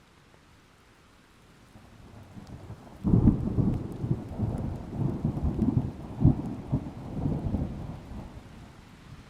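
A thunderclap about three seconds in, rolling on in a series of low rumbling peaks for several seconds before fading, over faint steady rain.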